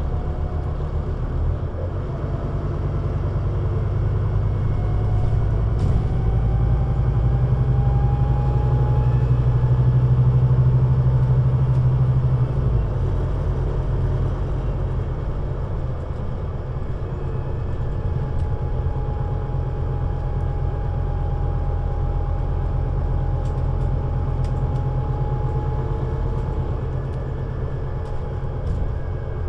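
Scania Citywide articulated bus's diesel engine pulling under load, building in loudness for about ten seconds with a faint rising whine, then easing off sharply about twelve seconds in and running on more quietly and steadily as the bus rolls along.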